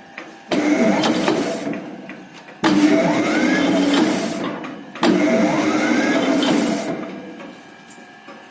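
Motor-driven machinery started in three short runs, each beginning abruptly and fading over about two seconds, with a faint whine that rises in pitch.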